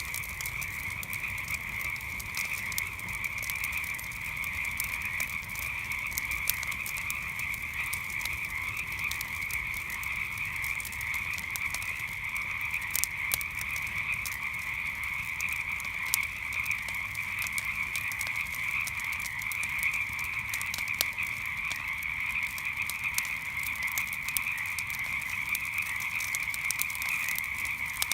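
A dense chorus of frogs calling without pause at night, a steady high-pitched din, with small sharp crackles and pops from a wood campfire scattered through it.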